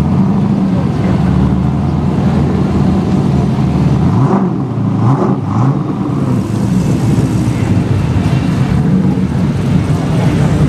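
Motor vehicle engine running loudly, with its pitch rising in a rev about four to five seconds in.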